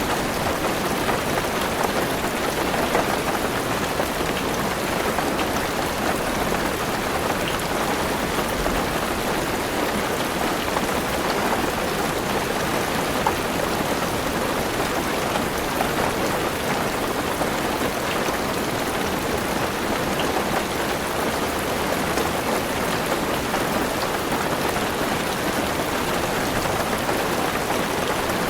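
Heavy rain falling steadily on a car roof, heard from inside the car.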